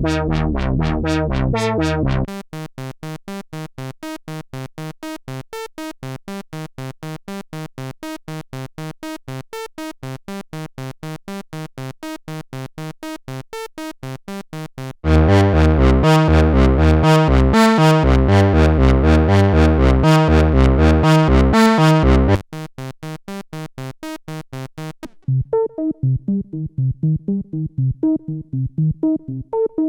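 Roland SE-02 analog monophonic synthesizer playing a fast, evenly repeating sequenced note pattern, switching to a new factory preset patch several times. A loud, bass-heavy patch comes in about halfway through and gives way to quieter, thinner ones near the end.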